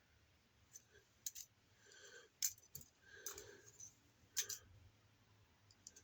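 Faint, scattered clicks and taps of hard plastic toy parts being handled, about seven short clicks over four seconds.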